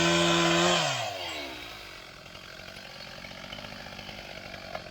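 Chainsaw engine at full throttle, then the throttle is released about a second in and the engine winds down to idle.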